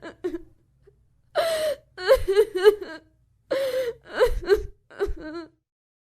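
A high-pitched human voice whimpering and wailing in about five short, broken outbursts, with gaps between them. It stops shortly before the end.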